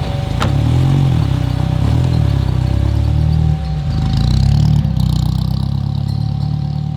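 Renault Alpine A110's engine driven hard, the revs climbing and dropping through gear changes. A sharp click comes about half a second in, and the engine briefly lets off about three and a half seconds in.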